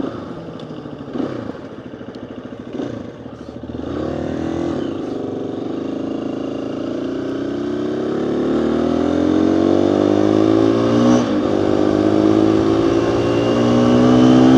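Dual-sport motorcycle engine heard from inside the rider's helmet, accelerating: a couple of knocks about one and three seconds in, then the engine note climbs steadily, dropping briefly about eleven seconds in and again near the end as it shifts up.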